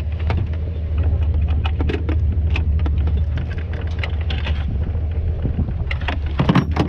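A steady low engine rumble, like a vehicle idling, with many scattered clicks and knocks over it.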